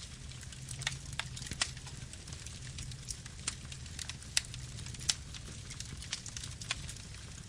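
Wood fire burning: a low steady rumble of flame with irregular sharp crackles and pops of burning wood, a few a second.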